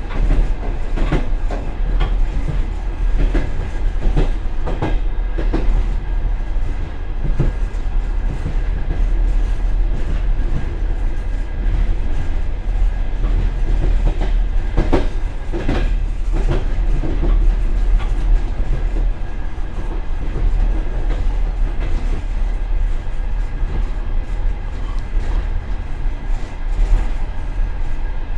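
Passenger train car running along the track, heard from the tail vestibule of the last car: a steady low rumble of wheels and running gear with irregular clacks as the wheels cross rail joints, a cluster of heavier clacks about halfway through.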